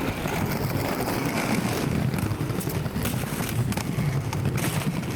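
Skateboard wheels rolling over rough street pavement: a steady low rumble with scattered clicks from cracks and grit.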